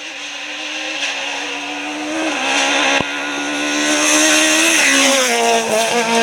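Rally car engine running hard under load, getting steadily louder as it approaches. Near the end the engine note drops.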